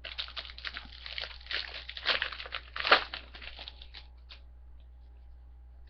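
Foil wrapper of a trading-card pack being torn open and crinkled, a dense run of crackling for about four seconds with the loudest tears in the middle, then it stops.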